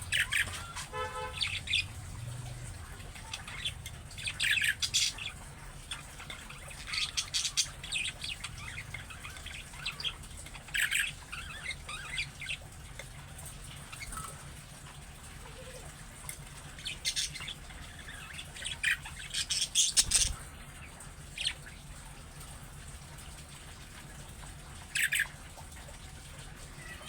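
Budgerigars chirping and chattering in short bursts of rapid high chirps, with pauses of a few seconds between bursts.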